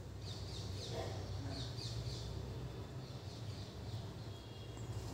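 Quiet background bird chirping, short falling chirps in small clusters, over a steady low hum.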